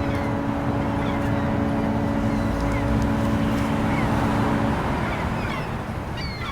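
A ship's horn sounds one long steady blast that stops about four and a half seconds in, over a low rumble. Short chirping bird calls come through the whole time.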